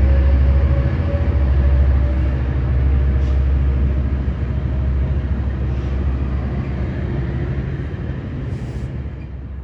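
Diesel locomotive engine with a steady low drone, a train running past, growing gradually fainter toward the end.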